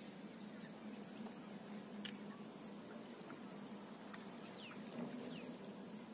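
Small birds chirping: short high squeaks and a few quick falling calls, loudest near the end, over a faint steady background. One sharp click about two seconds in.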